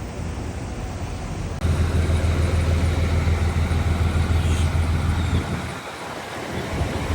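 Heavy diesel engine of earthmoving machinery running with a deep rumble. It turns suddenly louder about a second and a half in, eases off briefly near the end, then picks up again.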